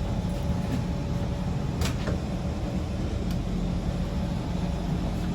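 Steady low hum inside a stationary Kawasaki C151 MRT train carriage, with a few sharp clicks about two and three seconds in.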